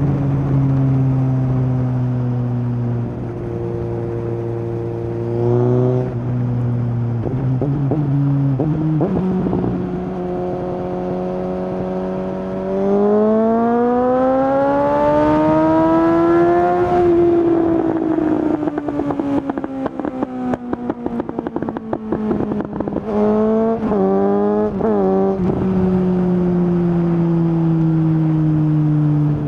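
Suzuki GSX-S750 inline-four through a decatted Yoshimura exhaust with no dB killer, pulling through the gears with shift drops. About halfway it climbs in one long hard pull, then on the closed-throttle overrun it crackles and pops for several seconds, followed by a few quick rises and falls in revs before settling to a steady run.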